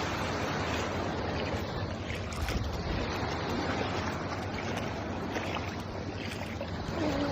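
Seawater washing and lapping in a steady rush, with wind buffeting the microphone.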